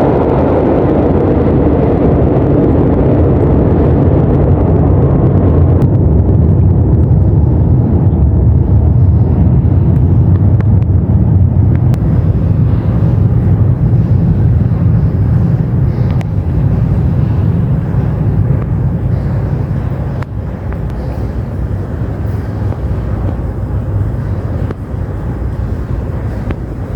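São Paulo Metro Line 2 (Green Line) train giving a loud, steady low rumble that eases off a little near the end.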